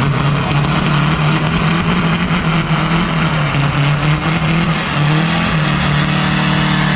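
Turbo-diesel drag truck's engine held at high revs for a burnout while crew hold the truck back, running hard and steady with a hiss of noise over it. The pitch steps up slightly about five and a half seconds in.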